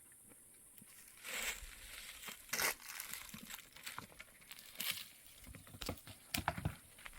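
Irregular rustling and crinkling noises starting about a second in, with a few sharper, louder crackles among them.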